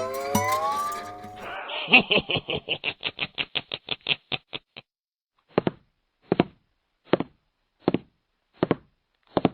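Cartoon sound effect after a snatch of music: a rapid run of clicks that slows down and fades out, then a pause, then single clicks ticking about once every three quarters of a second.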